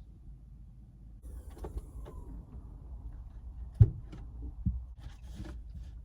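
Rustling and knocking of things being handled and moved about, with a sharp thump nearly four seconds in and a softer one just under a second later.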